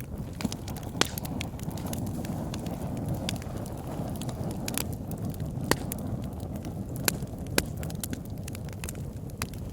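Wood fire crackling in a fireplace: a steady low rustle of burning with frequent small crackles and a few sharper pops, one about a second in and three more in the second half.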